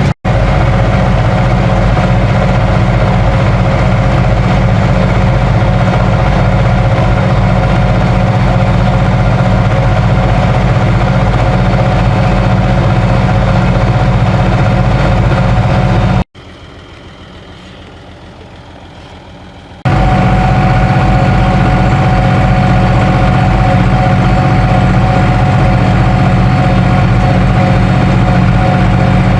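Ursus 3512 tractor's three-cylinder diesel engine running steadily at an even speed. The sound cuts out for an instant just after the start and drops to a much quieter level for about three and a half seconds past the middle, then comes back at full level.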